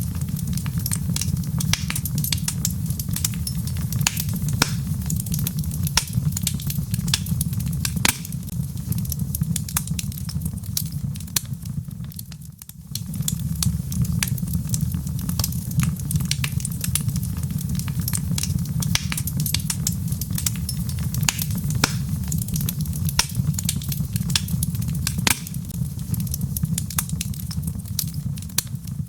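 Wood fire in a fireplace crackling, with frequent sharp pops and snaps over a steady low rumble of the flames. The sound dips briefly about twelve seconds in, then carries on as before.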